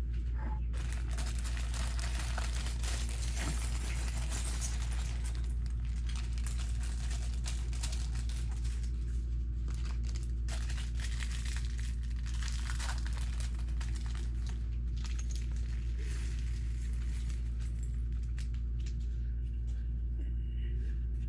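A plastic Lego parts bag crinkling and rustling as it is handled and opened, with small plastic pieces clicking, over a steady low hum.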